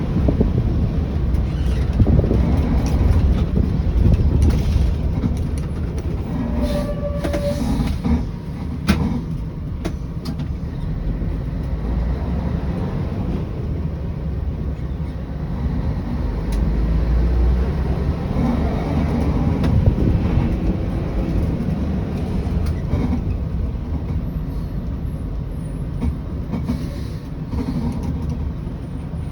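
Scania 113 bus on the move: its diesel engine runs with a steady low rumble, and the body gives off scattered rattles and knocks.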